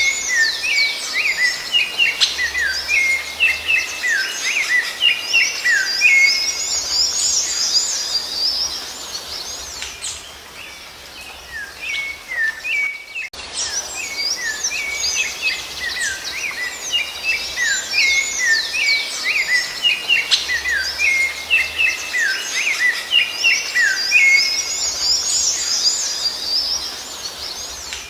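Songbirds singing: a dense run of quick chirps and whistles, thinning out about ten seconds in. At about thirteen seconds the same passage starts over, a looped recording.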